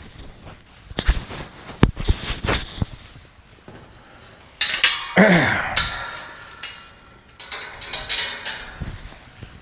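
Metallic clanking and rattling with separate knocks. The loudest clatter comes about five seconds in, with a brief sound falling in pitch inside it.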